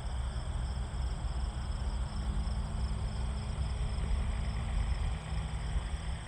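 Wind rumbling on the microphone, with a faint steady whine from the electric motor of a Seagull Models Super Decathlon RC plane in flight.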